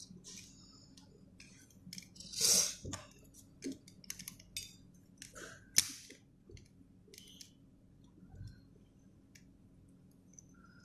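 Plastic pieces of a 3x3 puzzle cube being handled and pushed into place: scattered small clicks and scrapes, with a louder scrape about two and a half seconds in and a sharp snap near the middle.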